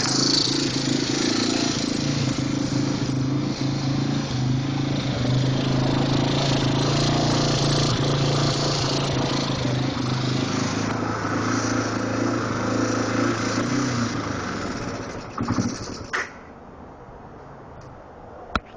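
2002 Yamaha TT-R225's air-cooled single-cylinder four-stroke engine running steadily, then dying away and stopping about fifteen seconds in, with a couple of knocks as it stops. The owner says a light clicking from the engine means the timing chain is out of time.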